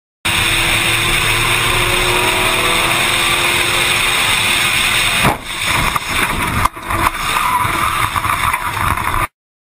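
A car engine accelerating with a rising pitch under loud rushing noise, then two heavy impacts about a second and a half apart, as in a car crash, followed by rough, uneven noise.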